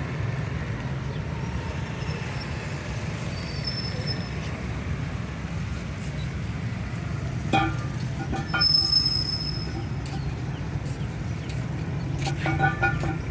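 A vehicle engine running with a steady low rumble. Brief sharp knocks or clanks come about halfway through and again near the end, and a short high tone sounds a little after halfway.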